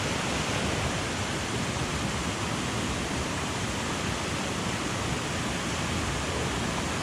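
Steady rush of a mountain headwater stream, an even wash of water noise with no change.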